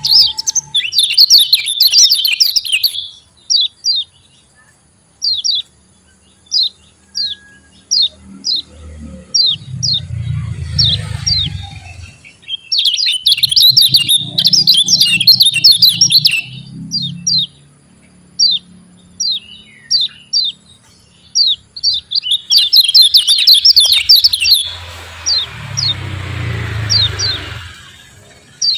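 Kecial kuning (yellow white-eye) singing: three loud runs of fast, chattering song, separated by series of single sharp, falling 'ciak' calls at about one or two a second.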